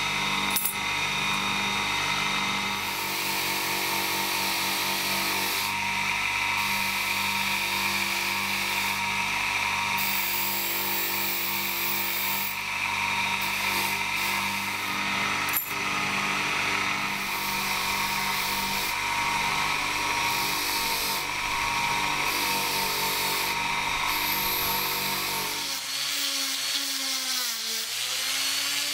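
Small power tool running steadily with a rough grinding, rubbing noise over its motor whine as it works the knife. Near the end the grinding stops and the motor's pitch dips and rises.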